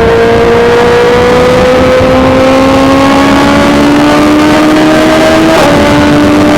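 BMW S1000XR's inline-four engine with a full Akrapovic titanium exhaust, under way and pulling, its pitch climbing slowly. About five and a half seconds in, the pitch drops suddenly, as at an upshift, and then holds steady.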